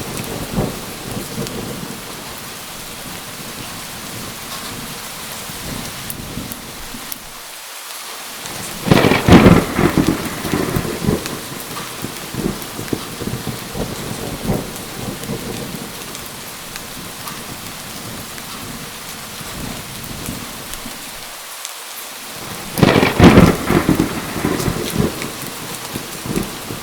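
Steady rain falling, with two sharp claps of thunder, about nine seconds in and again about four seconds before the end, each dying away over a couple of seconds.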